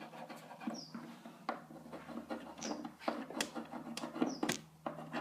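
Quiet scratching and rubbing of a compass being dragged over a wooden caboose wall to draw a circle, broken by a few sharp light clicks.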